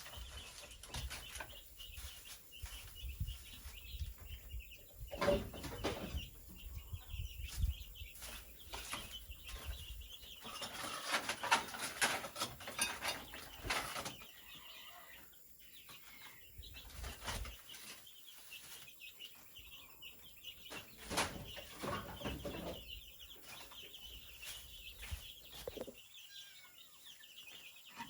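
Farmyard sounds: scattered knocks and rustling from hands-on work, with chickens clucking.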